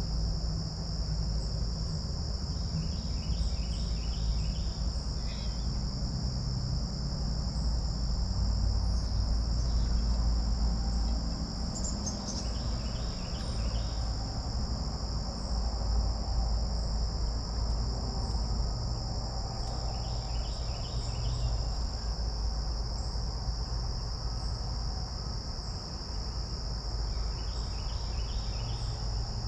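Steady, high-pitched trilling chorus of crickets, with a songbird repeating a short phrase of four or five quick notes about every seven or eight seconds, over a low rumble.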